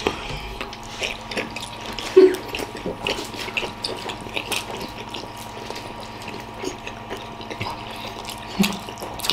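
Wet chewing and squelching of several people with their mouths stuffed full of whole large steamed momo dumplings: many small scattered clicks and smacks, with a brief louder muffled sound about two seconds in.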